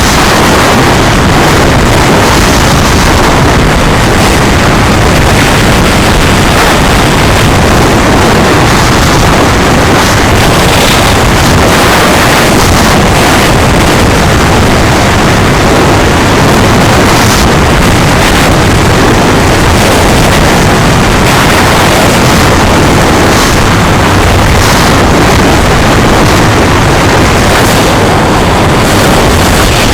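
Loud, steady roar of wind buffeting the microphone and vehicle running noise during a ride, with no break or change.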